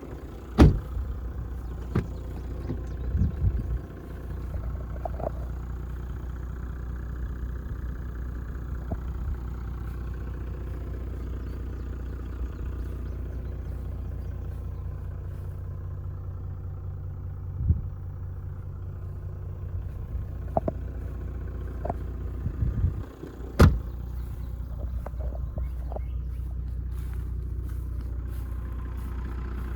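Toyota Land Cruiser 100 Series 4.2-litre straight-six turbo diesel running steadily with a low drone, broken by a few sharp knocks and clicks, the loudest about two thirds of the way through.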